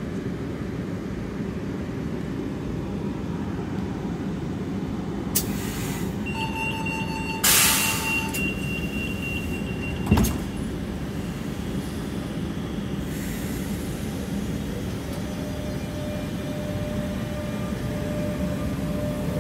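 Renfe class 447 electric commuter train standing at the platform with its equipment humming. About six seconds in a steady door warning tone sounds, with a short loud hiss of air partway through, and about ten seconds in a door shuts with a sharp knock. From about fifteen seconds a faint whine sets in and rises slightly as the train starts to pull away.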